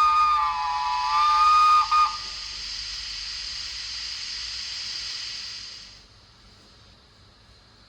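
Recorded Baldwin steam-locomotive whistle from a model's DCC sound decoder playing through its small speaker: a chord of several steady tones that stops about two seconds in. A steam hiss follows and fades out about six seconds in.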